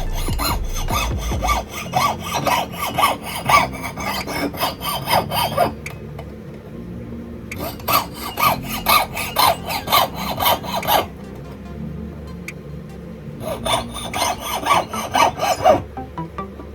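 A jeweller's hand file rasping on metal in quick back-and-forth strokes, in three runs with short pauses between them.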